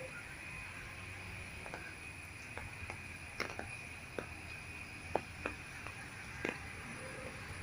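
Outdoor ambience with a steady high-pitched insect drone, broken by about ten irregular sharp clicks.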